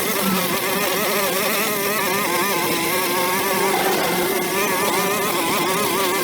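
Small engine running steadily, its pitch wavering up and down.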